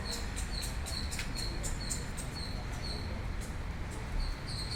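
A bird chirping: short high-pitched notes repeated evenly about four times a second, pausing briefly near the end, over a steady low background rumble.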